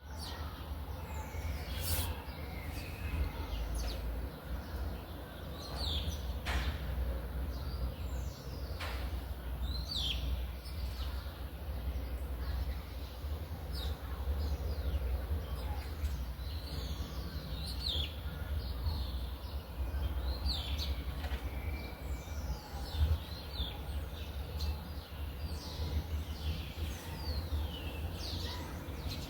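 Birds chirping throughout: many short calls that fall in pitch, coming in quick runs, over a steady low rumble.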